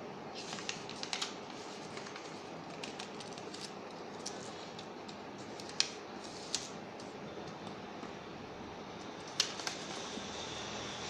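Paper being folded and creased by hand: scattered crisp crackles and taps, the sharpest about six and nine seconds in, over a steady hiss.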